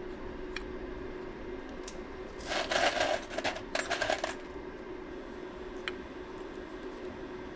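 Aluminum wire clinking and rattling against metal in two bursts lasting about two seconds, as it is fed into the electric melting furnace, over a steady low hum.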